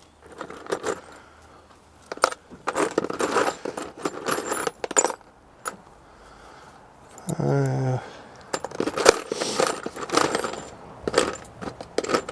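Irregular metallic clinking and rattling from hardware and tools being handled during fence work, with a short grunt-like voice sound about seven seconds in.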